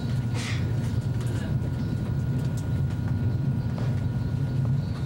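ICE high-speed train running, heard from inside the passenger car as a steady low rumble, with a few faint clicks and a short hiss about half a second in.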